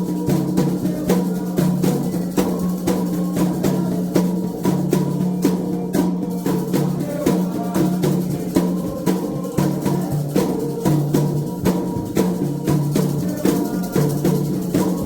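Candomblé toque on atabaque hand drums: a steady, fast run of hand strokes over sustained low drum tones, with sharp higher clicks keeping time.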